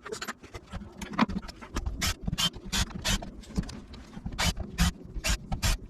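Ratchet wrench clicking in short runs as the 8mm bolts are backed out of the left case side of an ATV front differential. The sharp clicks come about two to three a second, in two bursts near the middle and near the end.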